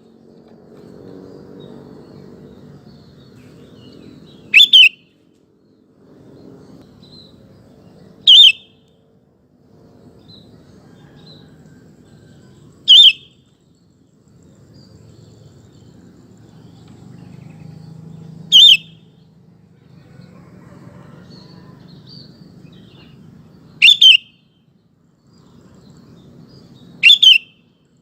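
Sooty-headed bulbul (kutilang) giving short, loud calls about every four to five seconds, six in all, some as quick double notes, over a faint low background hum.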